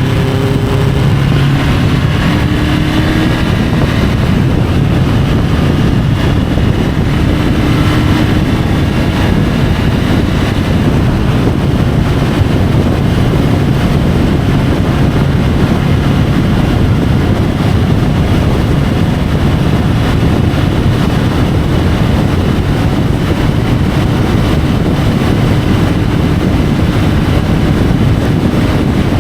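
Triumph Tiger 850 Sport's three-cylinder engine running steadily at road speed, picked up by a camera mounted on the bike, under heavy wind rush. The engine's tone is clearest for the first couple of seconds, then is mostly covered by the wind.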